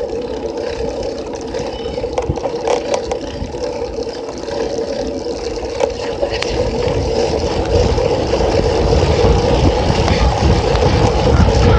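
Bicycle riding noise picked up by a phone zip-tied to the bike: a steady whir of the bike rolling, with a few knocks and rattles. Wind rumble on the microphone grows louder in the second half.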